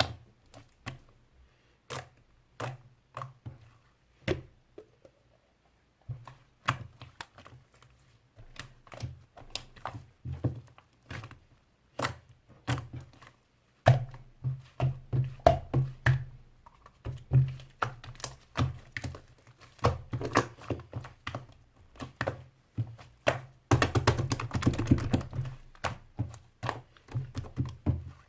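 Pink slime being squeezed and pressed by hand, giving irregular wet clicks and pops. They come more often in the second half and crowd together about three-quarters of the way through.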